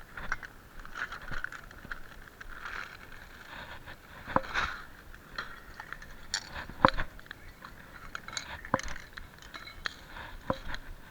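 Bonfire crackling and popping, with scattered small clicks and a few sharper knocks.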